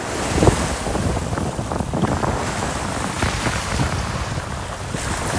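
Wind buffeting the phone's microphone at the seashore, a rough, uneven rumble over the wash of the sea.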